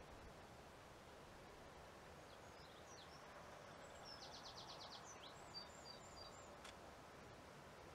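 Near silence over a quiet field, with faint songbird calls: a few high chirps and a short rapid trill around the middle.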